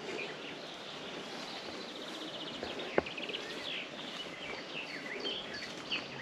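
Small songbirds chirping and trilling over a steady background hiss, with one sharp click about three seconds in.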